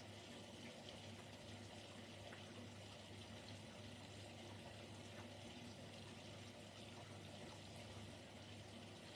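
Siemens Siwamat Plus 574 washing machine in its rinse phase: a faint, steady hum with the sound of water in the drum.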